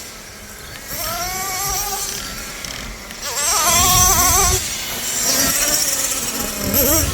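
Nitro RC monster truck engines revving, their high-pitched whine rising and falling quickly as the throttle is worked, loudest about halfway through.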